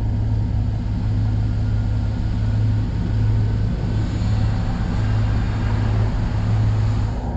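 Chevrolet Malibu driving, heard from a roof-mounted camera: a steady low drone of road and wind noise with a hiss over it.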